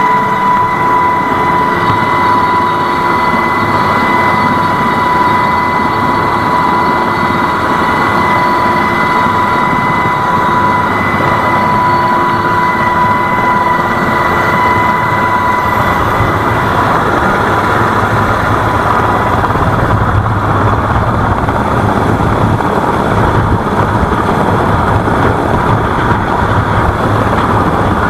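Loud, steady engine noise with a high, even whine that fades out about two-thirds of the way through, leaving a deeper hum.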